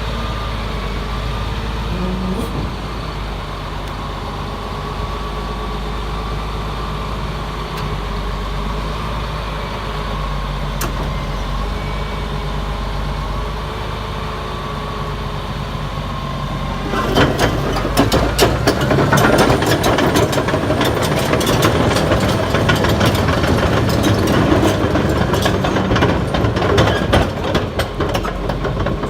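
Caterpillar D6T XL crawler dozer's diesel engine running steadily with a faint whine. About two-thirds of the way in, the steel tracks set off into a dense run of clanking and rattling as the machine moves.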